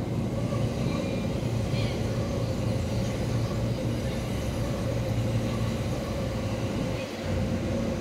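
JR West 287 series Kuroshio limited express electric train running along the platform: a steady rumble of wheels on rail with a low, even motor hum.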